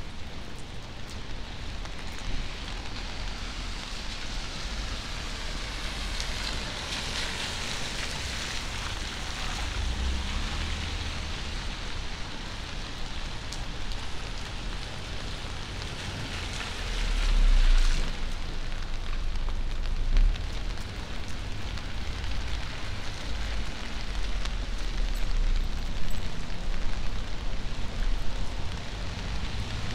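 Steady rain on a city street: dense pattering and dripping hiss. Twice the hiss swells and fades, about 7 and 17 seconds in, like car tyres passing on wet pavement.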